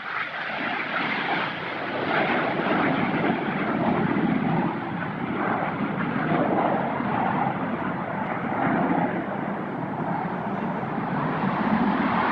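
Aircraft engine noise, a steady drone that swells and eases slightly.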